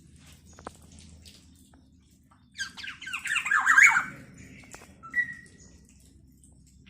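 Kepodang emas oriole giving one loud, harsh, scratchy call lasting about a second and a half, starting about two and a half seconds in, followed a second later by a short whistled note. Faint clicks come before the call.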